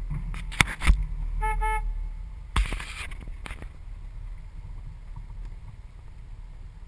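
Vehicle horn giving two short toots in quick succession, over a low steady rumble, with a few sharp knocks around it.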